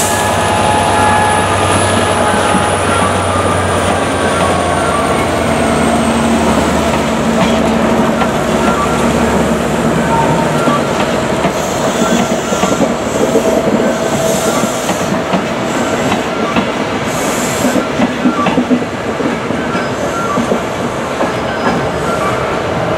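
Class 67 diesel locomotive passing while hauling coaches, its engine note and a high falling whine fading over the first ten seconds or so. After that come the coaches' wheels clattering over rail joints with brief high squeals.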